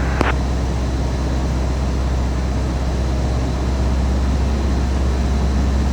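Cessna 150's Continental O-200 four-cylinder engine and propeller droning steadily at cruise power, heard from inside the cabin.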